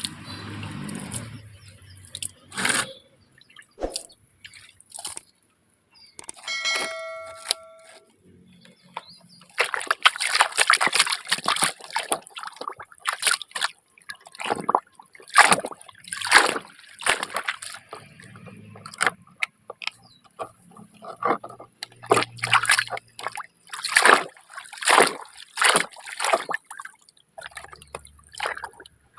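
Water splashing and sloshing in quick irregular bursts as muddy toy vehicles are washed. There is a short electronic beep tone about seven seconds in.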